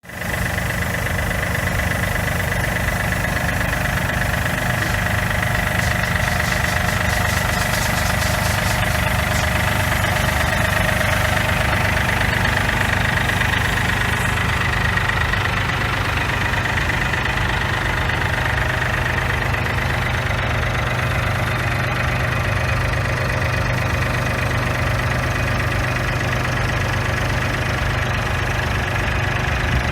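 John Deere 4300 compact tractor's three-cylinder diesel engine idling steadily, with a thin high whine over it.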